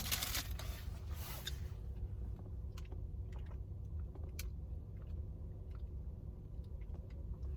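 A person chewing a soft, sugar-and-cinnamon donut stick dipped in chocolate sauce. The chewing is a little louder in the first second or so, then quiet, with a few faint mouth clicks.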